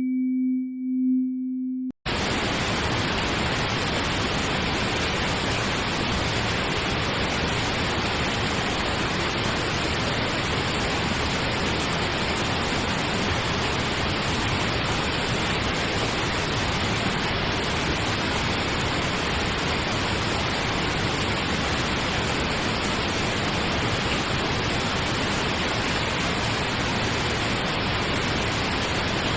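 A steady low electronic sine tone, the breathing-pacer tone, plays for about two seconds and then cuts out. After a momentary gap, steady pink noise starts and runs on evenly.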